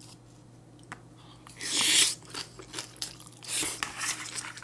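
A person taking a spoonful of bibimbap into the mouth and chewing it: a louder bite about two seconds in, then chewing with small clicks and another mouthful noise near the end.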